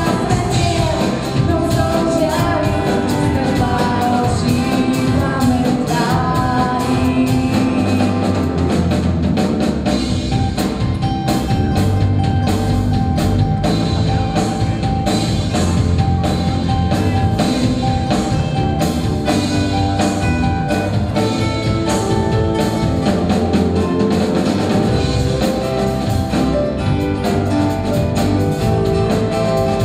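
Live band playing a pop song with drums keeping a steady beat, a woman singing over it in the first part.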